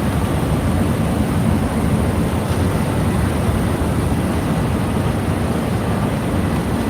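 Steady low rumble of street traffic, with no separate horn, siren or knock standing out.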